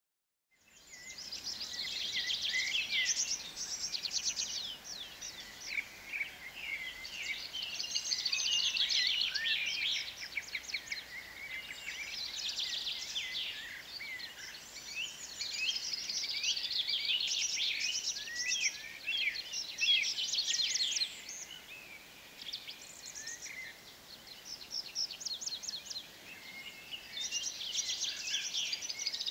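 Songbirds singing: a busy, continuous chorus of overlapping chirps and trills that fades in about half a second in.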